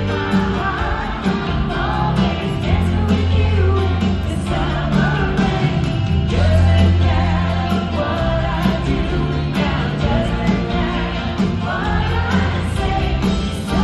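Live pop-rock band playing with a woman singing lead, recorded from the audience: steady drums and bass under the vocal melody.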